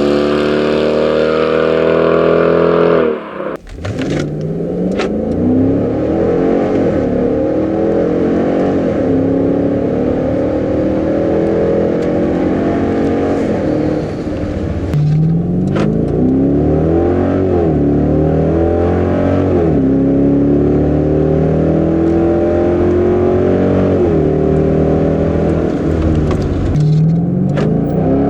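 Dodge Durango's 5.7-liter Hemi V8 through a stainless steel catback exhaust, accelerating repeatedly: the pitch climbs, then drops at each upshift.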